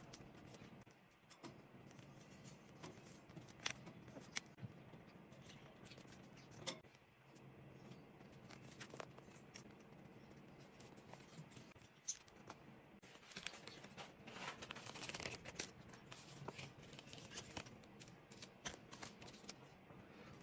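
Quiet, close handling sounds of paper crafting: scattered small clicks and snips of scissors and paper, with a denser stretch of scratchy rustling from about thirteen to seventeen seconds in.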